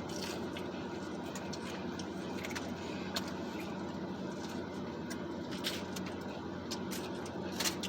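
Steady hum of a car cabin with the engine idling, with a few faint clicks scattered through it.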